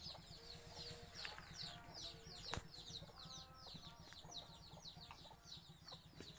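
Faint chickens clucking under a rapid, continuous run of short high chirps from small birds, several a second. One sharp click sounds about two and a half seconds in.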